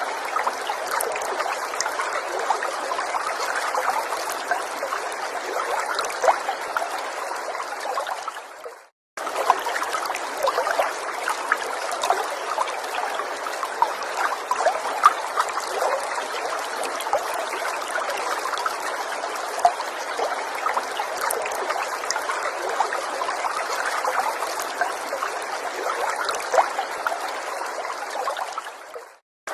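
Small forest stream trickling steadily, with fine splashy ticks over an even flow. The sound fades out and cuts back in abruptly about nine seconds in, and fades out again near the end.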